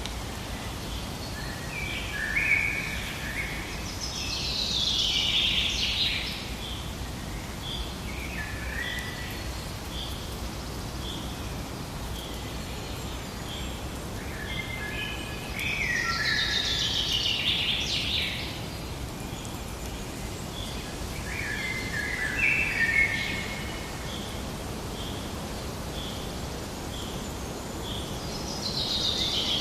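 Forest ambience: songbirds singing short phrases every few seconds, with a steady series of short high pips repeating about every 0.7 s, over a low background noise.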